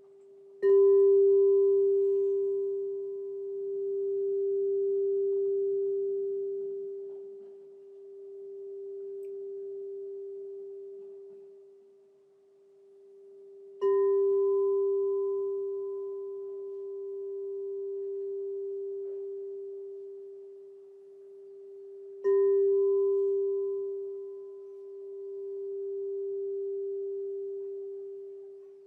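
Crystal singing bowl struck three times, each strike ringing on as one steady low tone with fainter higher overtones, the sound slowly swelling and fading as it decays. The second strike comes about halfway through and the third a few seconds before the end.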